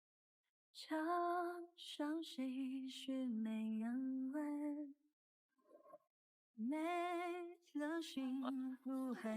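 A woman singing a slow, soft melody with a wavering vibrato on long held notes. There are two phrases, with a pause of about two seconds between them.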